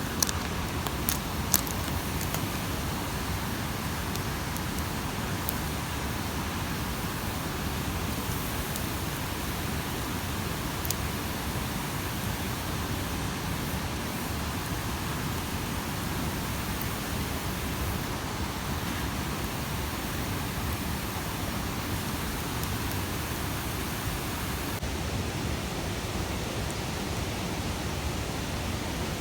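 Steady rushing of a mountain stream, with a few sharp clicks in the first two seconds.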